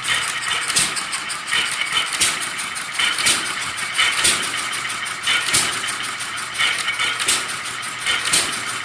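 1931 Taylor vacuum engine running: a fast, even clicking from its moving parts, with a louder knock about once a second.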